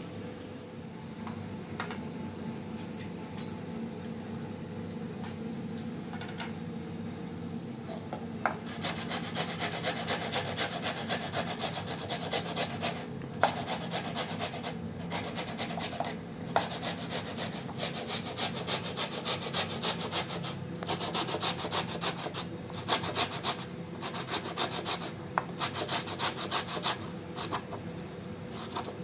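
Fast, rhythmic scraping strokes in several runs broken by short pauses, starting about eight seconds in, over a steady low hum.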